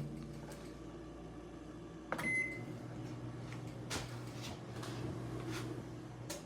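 Microwave oven running off a portable power station, warming a cookie: a steady low hum, a short beep about two seconds in, and a click as the hum stops near the end.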